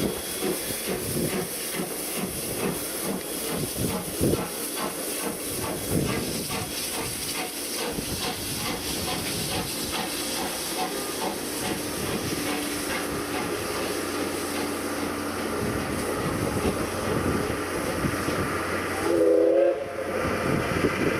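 C58 steam locomotive working slowly up a steep grade, with a steady hiss of steam and the beat of its exhaust. A short whistle blast near the end.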